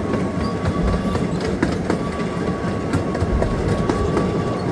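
Park excursion train running, heard from on board: a steady rumble of wheels on track with repeated clicks over the rail joints. A thin, steady high whine runs along with it and drops out briefly near the middle.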